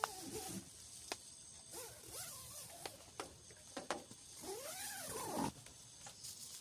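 An animal's calls: a few cries that rise and fall in pitch, the longest lasting about a second near the end, over a steady hiss with scattered sharp taps.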